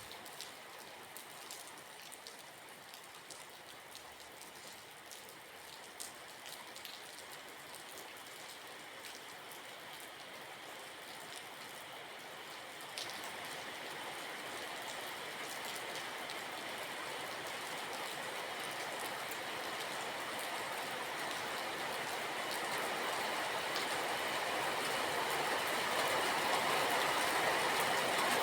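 Steady rain with fine sharp drip ticks. From about halfway, a rushing noise swells steadily louder over the rain.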